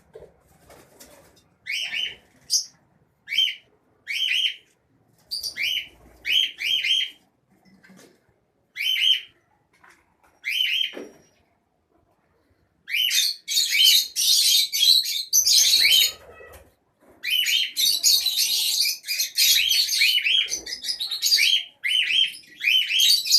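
Lovebirds chirping in short, shrill bursts, scattered at first and then running into almost nonstop chattering from about halfway through, with a brief pause.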